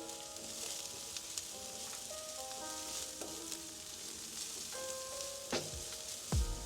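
Onions sizzling as they fry in olive oil in a hot pan, a steady hiss. A couple of sharp knocks near the end. Soft background music with held notes underneath.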